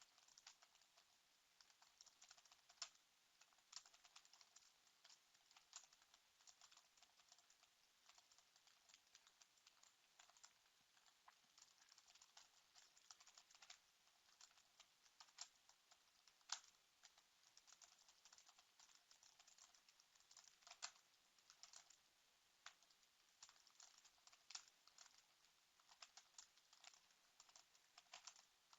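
Faint typing on a computer keyboard: a steady run of irregular key clicks, with a few sharper, louder keystrokes scattered through.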